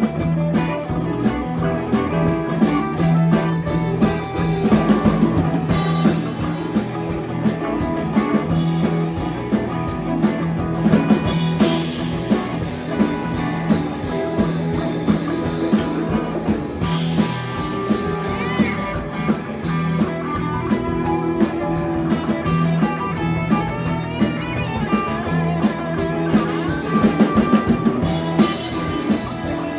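Live rock band playing: electric guitar and drum kit with a steady beat.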